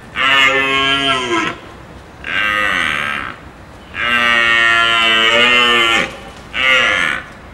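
An animal calling four times in loud, drawn-out bawls that sound like mooing, the third call the longest at about two seconds, with the pitch dropping at the end of some calls.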